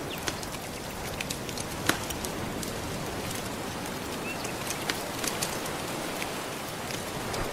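Wood fire crackling with scattered sharp pops, one louder pop about two seconds in, over a steady hiss of gentle surf.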